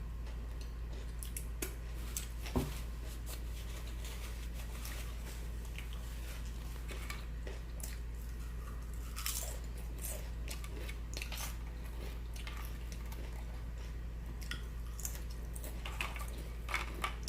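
A person eating close to the microphone: chewing and biting, with scattered short crunches and mouth clicks, over a steady low hum.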